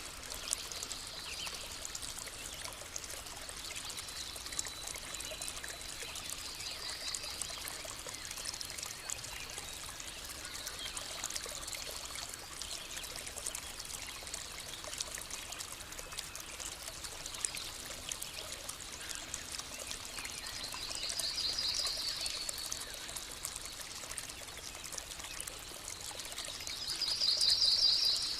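River stream flowing steadily, with birds singing; a bird's rapid trill rings out twice in the last third, the second one louder.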